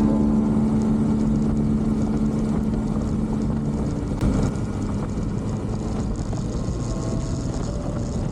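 Motorcycle on the move: engine running at a steady speed under wind noise, with a steady drone that fades about four seconds in.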